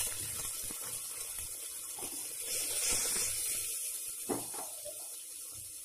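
Chopped tomato and curry leaves sizzling in hot oil in an aluminium pressure cooker. A steady hiss fades gradually, with a few light knocks as the mixture is stirred.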